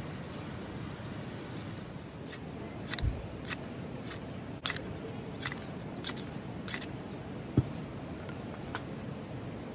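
A run of sharp clicks, about two a second for several seconds, then a single low thump, over a steady background hiss.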